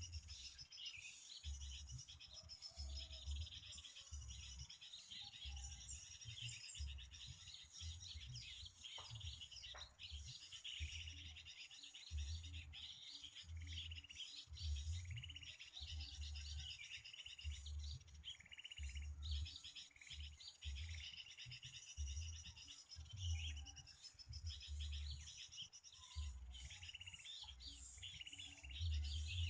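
Small birds chirping and twittering in quick, high runs of notes, with a repeated low rumble underneath.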